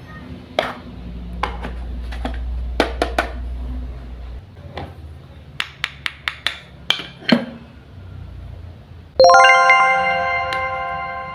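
Small sharp clicks and taps of toy pieces being handled, then, about nine seconds in, a bright chime that rings out and fades over a couple of seconds, like a toy kitchen appliance's ding.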